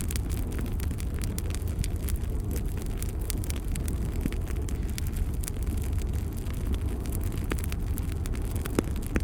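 Fire burning in a fireplace: a steady low rumble of flame with frequent small crackles and pops, one sharper pop near the end.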